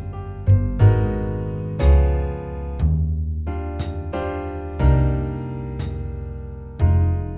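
Jazz backing track at a slow tempo: piano comping sustained chords, one struck about every beat or two and left to ring, over low bass notes.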